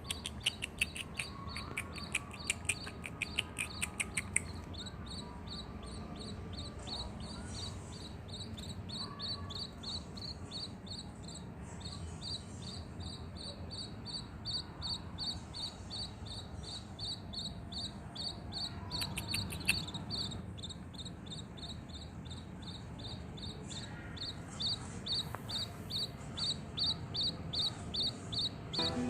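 Rapid, evenly repeated high-pitched chirps, about four a second, with a faster run of sharper chirps over the first few seconds, above a low steady hum.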